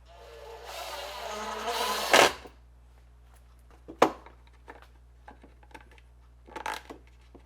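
Workbench handling of parts and tools: a rising rustling noise for about two seconds ending in a sharp knock, then a few light clicks and a sharper click about four seconds in.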